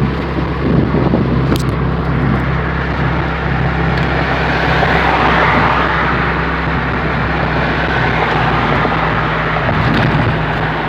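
Straight-piped GM 2.2-litre four-cylinder engine in a Chevy Cavalier, running with no muffler and a steady drone at an even speed under road noise. A brief click comes about a second and a half in.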